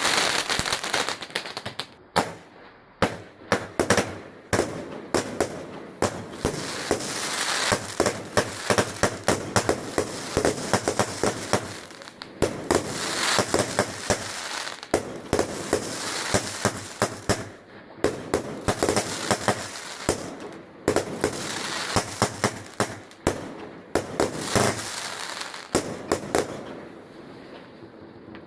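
Fireworks going off: rapid volleys of sharp bangs and crackles, many a second, with short gaps between the volleys and a quieter spell near the end.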